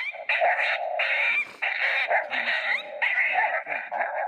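Electronic predator call playing a recorded coyote fight sound, MFK Pound Town: a steady run of coyote yips and whines with gliding pitch.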